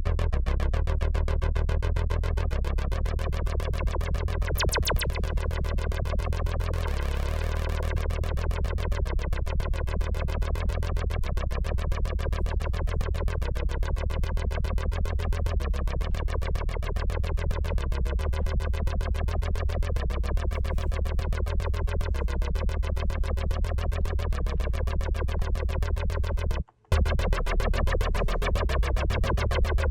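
Roland S-1 synthesizer playing a buzzy, rapidly pulsing patch with heavy bass. It cuts out for a split second near the end, then carries on.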